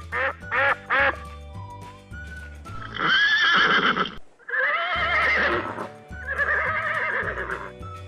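Duck quacking a few times in quick succession, then a horse whinnying three times in long calls of wavering pitch, over background music with a steady beat.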